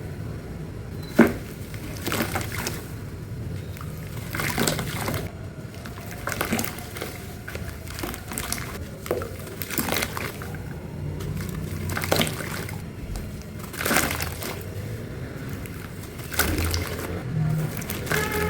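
Dry, dusty crumble breaking apart and dropping into water: crisp crackling crunches with wet splashes and sloshing, coming every second or two. The sharpest crack comes about a second in.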